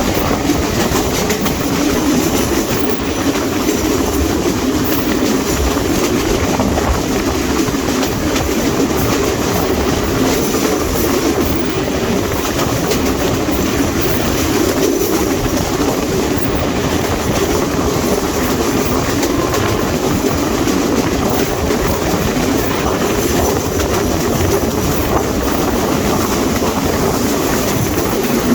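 Train running at speed: a steady, loud rumble with the clatter of wheels on the rails.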